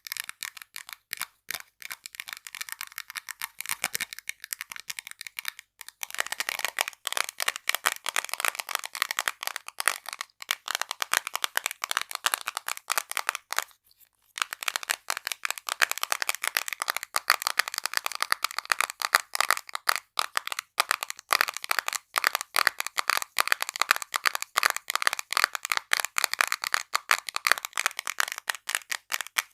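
Quick ASMR tapping on small household items, many sharp taps a second. It is lighter for the first six seconds, then denser and louder, with a brief stop about halfway through.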